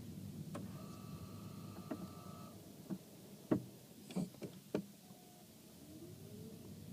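Lexus CT200h with an abnormal brake noise: over a steady low hum, a brief high squeal about a second in, then a cluster of sharp clicks and knocks in the middle, the loudest about three and a half seconds in.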